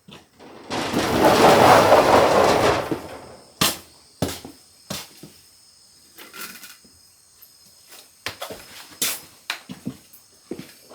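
Wood campfire burning, with a burst of rustling noise from about one to three seconds in, then scattered sharp cracks and pops from the burning wood.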